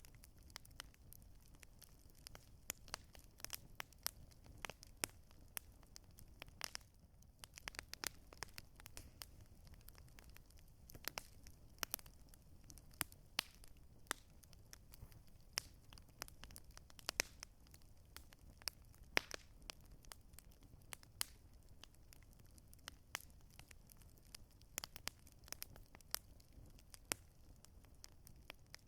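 Wood campfire crackling: irregular sharp snaps and pops, several a second, over a low steady rumble.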